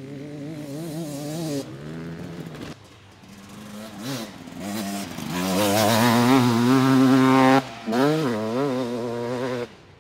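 Enduro dirt bike engine revving and accelerating in several short bursts, its pitch rising and falling with the throttle. The loudest, highest-revving stretch comes a little past the middle, and the sound cuts off abruptly between bursts.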